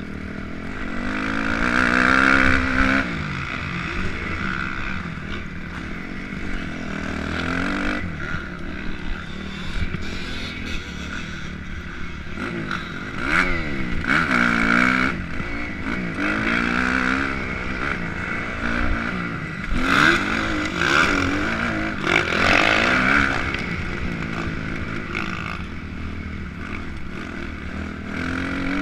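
Motocross dirt bike engine revving up and dropping back, over and over, its pitch rising and falling as the bike is ridden round the track, with occasional knocks and rattles.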